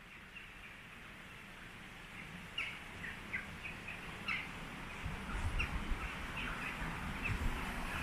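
Small birds chirping: a run of short, high chirps that starts a couple of seconds in, over a low rumble that builds from about halfway.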